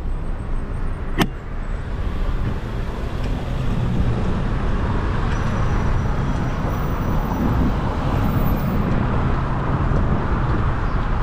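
Steady city street traffic noise, a low rumble of passing cars, heard from a moving bicycle, with one sharp click about a second in.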